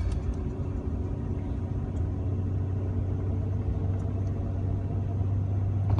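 Jeep Wrangler TJ engine and drivetrain running with a steady low drone, heard from inside the cab.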